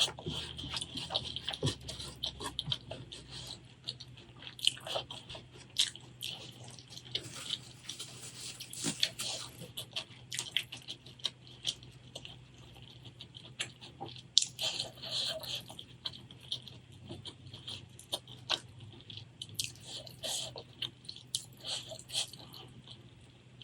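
Close-miked eating sounds: a person chewing with wet mouth clicks and smacks, in short, irregular bursts.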